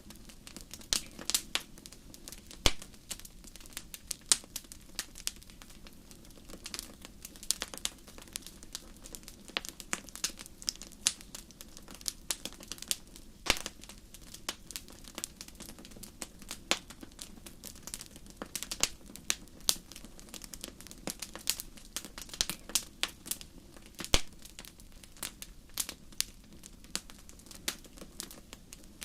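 Wood fire crackling in a fireplace: irregular sharp pops and snaps, often several a second, over a faint steady low rumble.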